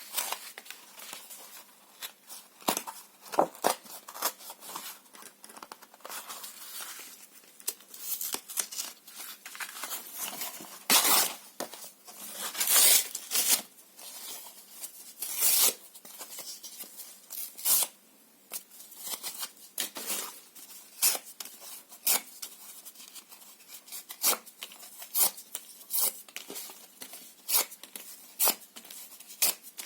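Paper and cardboard being torn in many short, irregular rips, with a few longer, louder tears around the middle.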